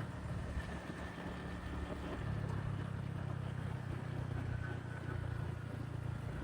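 Motorbike engine running as the bike rides along, its note shifting about two seconds in.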